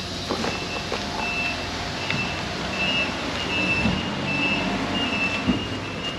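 A truck's backup alarm beeping over and over, over the low rumble of idling truck engines.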